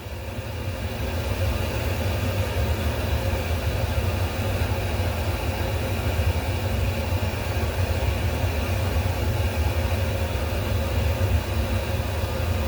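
A steady low machine hum with a constant rushing noise over it, unchanging throughout.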